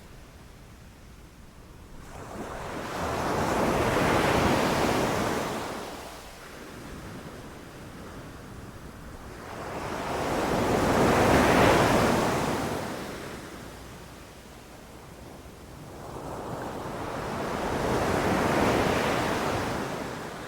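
Ocean waves breaking on a beach: three waves in turn, each swelling up over a few seconds and washing back down, about seven seconds apart, with quieter lulls between them.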